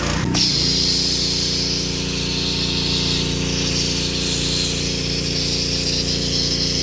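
Pressure washer engine running steadily, with the hiss of a foam cannon spraying soap foam starting about a third of a second in.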